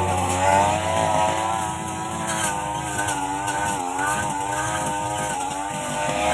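Small engine of a brush cutter (string grass trimmer) running steadily, its pitch wavering up and down as it cuts.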